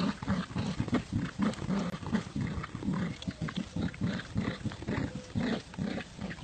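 Dog play-growling during a tug-of-war over a toy: a low, pulsing growl, several pulses a second, that goes on without a break.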